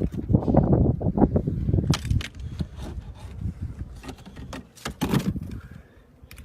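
Irregular clicks and knocks of wooden beehive parts being handled, over a low rumble that eases after the first couple of seconds. No bee hum: the hive is empty.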